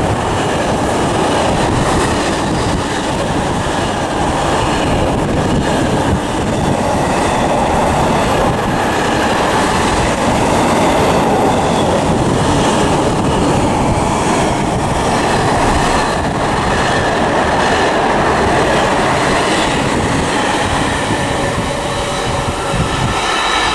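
Container wagons of a long intermodal freight train running past close by, a loud, steady noise of wheels on the rails.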